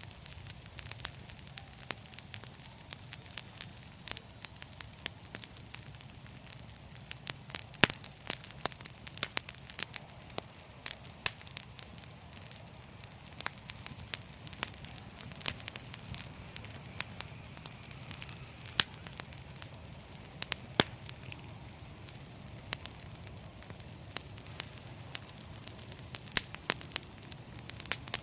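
Wood fire in a fireplace crackling: frequent sharp, irregular pops and snaps over a steady low rumble of burning.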